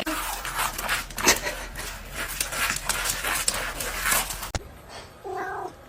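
A pet panting in quick breathy puffs, about three a second; after a cut, a short pitched whine or cry near the end.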